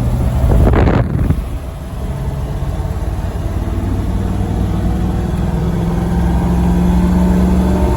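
Chevy V8 engine, fitted with a Walker Quiet-Flow muffler, pulling at low revs in third gear under a heavy towing load, its note rising slowly and getting louder as it accelerates. A brief loud rushing noise about a second in.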